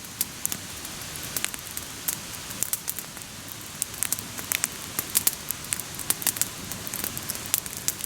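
Wood campfire crackling: many irregular sharp pops and snaps over a steady hiss.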